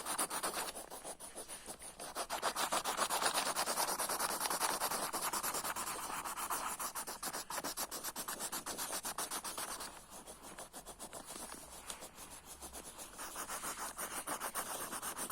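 Rapid back-and-forth scribbling of coloured pencils on paper as a colouring-book picture is filled in, a fast steady rubbing that eases off for a few seconds past the middle and then picks up again.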